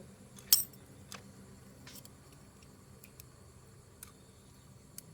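Metal tools or engine parts clinking as they are handled: a loud sharp clink about half a second in, then four or five fainter clicks spread through the rest, over a faint steady low hum.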